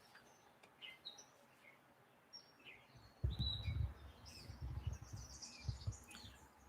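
Faint birds chirping in short, high calls, with a low rumble in the middle of the stretch.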